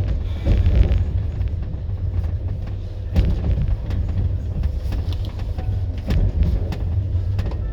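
Passenger train running: a steady low rumble with scattered, irregular knocks and clicks.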